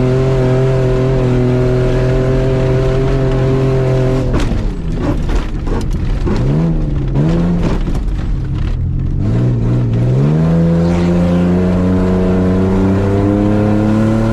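A Ford Ranger's engine is held at steady high revs under full throttle over rough dirt. After about four seconds the sound turns ragged for several seconds, with knocks and the revs swinging up and down as the truck crosses bumps. It then settles back to steady full-throttle running, the revs climbing slowly.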